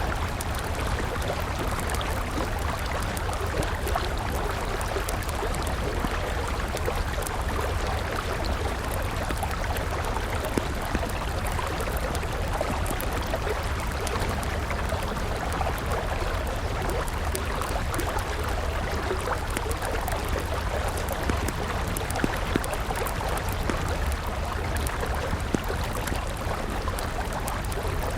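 River water flowing steadily, with a wood fire crackling over it in scattered sharp pops.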